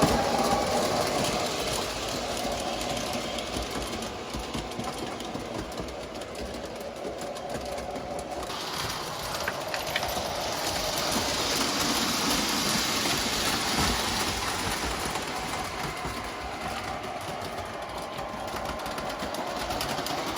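Model electric train running around its layout track: a steady mechanical whir of motor and wheels on the rails, growing louder and fainter as the train comes near and goes away.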